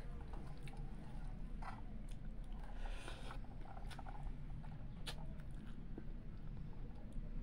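Close-up chewing of a mouthful of rice with fish and dal, with wet mouth sounds and small clicks, and the squish of fingers mixing rice on a steel plate. A steady low hum runs underneath.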